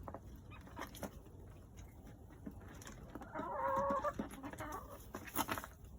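Backyard hens clucking softly as they feed, with one louder drawn-out call a little past halfway, and scattered light taps from their pecking.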